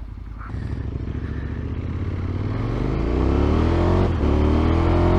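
Adventure motorcycle pulling away and accelerating, the engine note rising steadily through the revs, with a brief dip about four seconds in as it shifts up a gear before climbing again.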